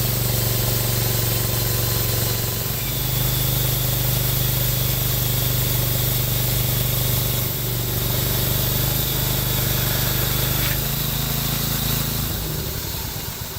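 Petrol chainsaw engine running steadily at high revs over a hissy cutting noise. The engine note shifts slightly a few times and fades just before the end.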